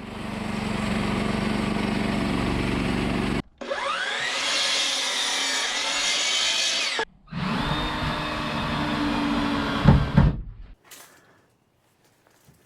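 Power saws cutting lumber in three short edited clips. First comes a steady machine run. Then a saw motor spins up, cuts and winds down. Then another steady cut ends with a few knocks about ten seconds in, after which it goes nearly silent.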